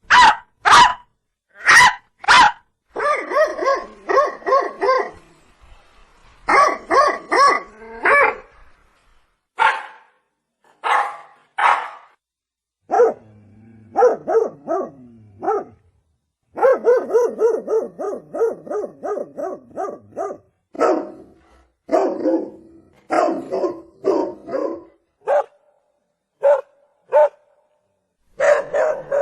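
Dog barking over and over: some single sharp barks and some quick runs of barks, with short gaps between.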